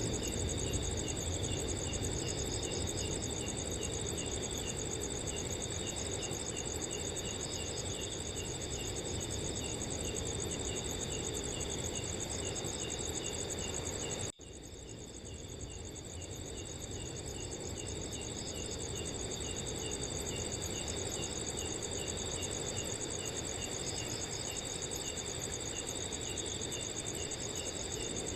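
Crickets chirping at night: steady high trills from several insects, with one chirp repeating about twice a second, over a soft low rush of wind. About halfway through the sound cuts out for an instant, then fades back in over a few seconds.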